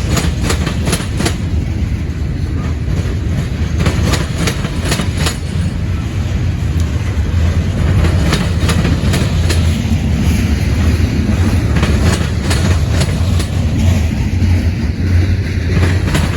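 Freight train rolling past at close range: a steady low rumble with clusters of sharp wheel clicks over rail joints.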